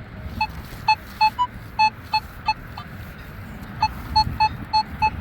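Nokta metal detector sounding a run of short, same-pitched beeps at uneven spacing as it passes over a buried target, with wind rumbling on the microphone.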